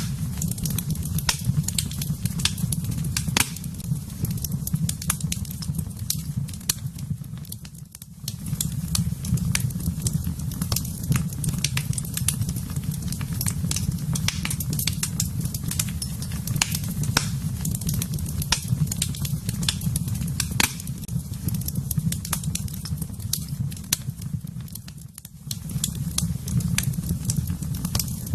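Wood fire in a fireplace crackling, with frequent irregular sharp pops over a steady low rumble. The rumble dips briefly twice.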